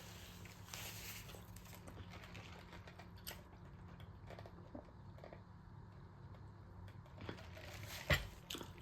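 Faint eating sounds: small mouth clicks, chewing and crinkles scattered through, with one sharper knock about eight seconds in.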